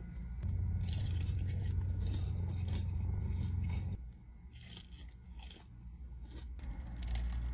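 Close-up biting and chewing of crispy fried chicken wings: a string of short crunches. A steady low hum sits under the first half and stops about four seconds in.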